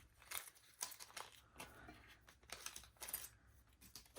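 Faint rustling and a few light clicks of small craft-kit packaging and parts being handled.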